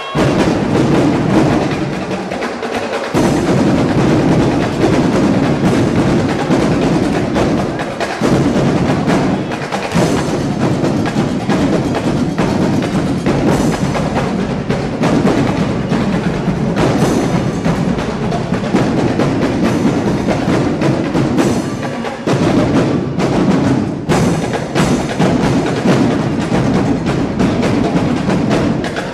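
Drum line playing a loud, fast percussion cadence of dense, rapid drum strikes, with a few brief breaks in the pattern.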